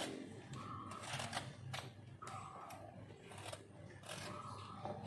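Repeated short scraping strokes with light clicks, from a knife working through the flesh of a ripe Indian mango.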